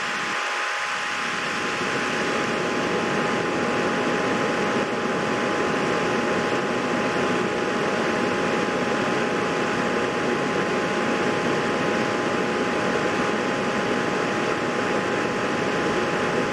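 Steady whirring noise like a small fan or blower, even throughout, with two faint steady tones running through it.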